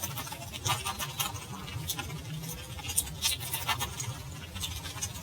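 Close-miked eating sounds of spicy seafood: irregular wet clicks and smacks from chewing and slurping, over a steady low hum.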